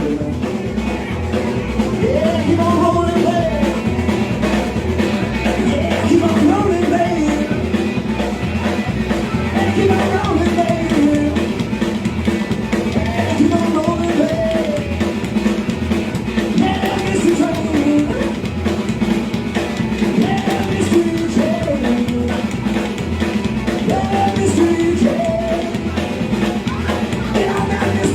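Live rockabilly trio of electric guitar, bass and drum kit playing a fast, steady number, the guitar playing short bending phrases over the rhythm.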